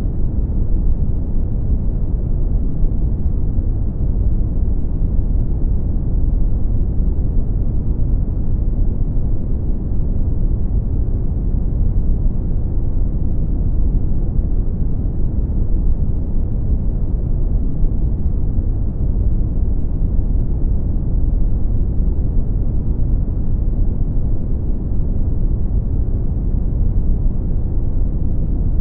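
Brown noise: a steady, deep rumbling hiss, strongest in the bass and fading out in the treble, with no changes.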